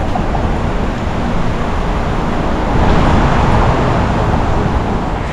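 Wind buffeting the microphone of a camera on a moving bicycle, mixed with the rumble of the tyres on the trail. It swells a little about three seconds in.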